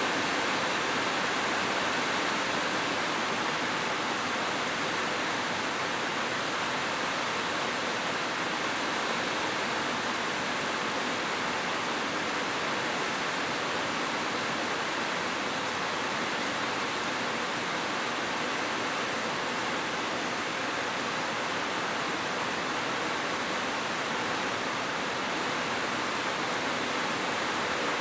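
Heavy rain falling without a break, a steady even hiss.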